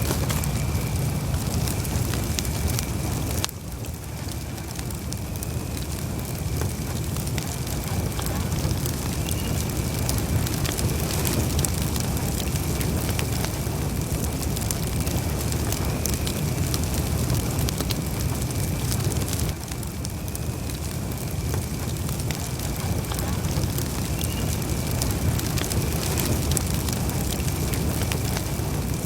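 Campfire burning: wood crackling and popping over a steady low rumble of flames, with a faint steady high whistle.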